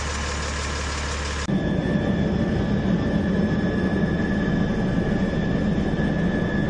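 Vehicle engine sound effects laid over the toy footage. A steady engine drone cuts off abruptly about one and a half seconds in. A different steady engine drone with a thin high whine takes its place at once.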